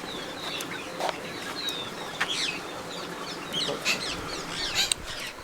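Several birds chirping and calling: many short, high chirps and quick downward-sweeping calls, overlapping and scattered throughout.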